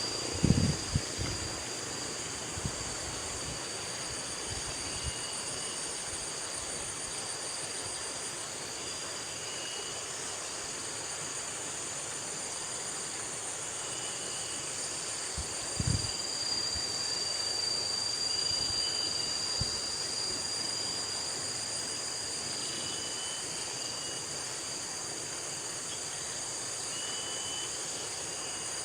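Steady high-pitched insect drone, with short faint bird chirps every few seconds and a couple of low thumps.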